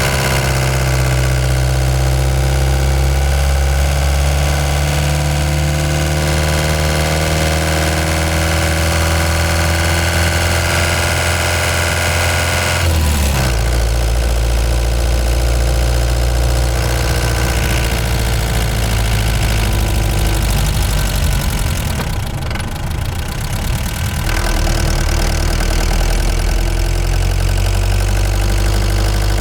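Ford Transit Mk5 van engine running while driving. Its note climbs slowly, then drops abruptly about halfway through and carries on steadily.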